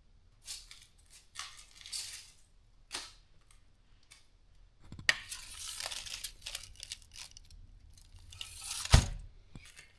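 Tearing, crinkling and rustling as overcooked food is broken open to check the middle, with a sharp knock about five seconds in and a louder one near nine seconds.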